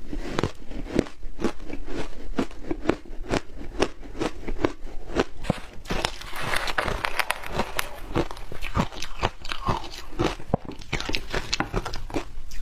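Close-miked crunching of shaved ice being bitten and chewed, a dense run of sharp irregular crackles several times a second.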